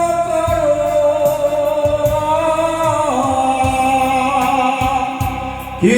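A Korean trot ballad sung with band accompaniment. The singer holds a long note on the end of the line '날까요', and it steps down in pitch about three seconds in, over a steady drum beat.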